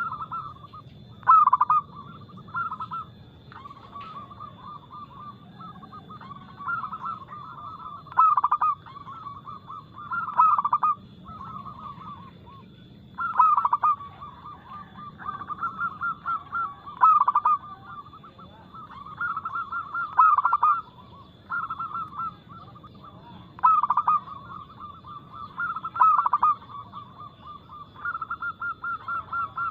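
Zebra doves (perkutut) cooing over and over: fast rolling coos that come in phrases every second or two, several birds overlapping at times.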